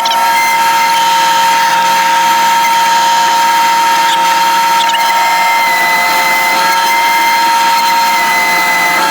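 Electric power tool running steadily at speed, its motor giving a high, constant whine that dips slightly in pitch now and then.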